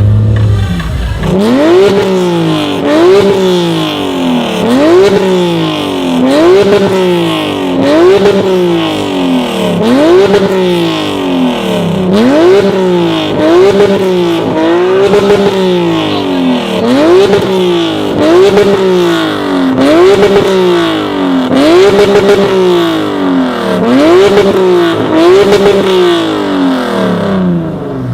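A high-performance car engine being revved over and over, each rev rising in pitch and then falling back, roughly once a second.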